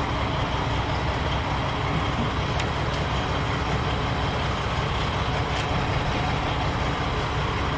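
Semi truck's diesel engine idling steadily, a low even rumble, with a couple of faint clicks.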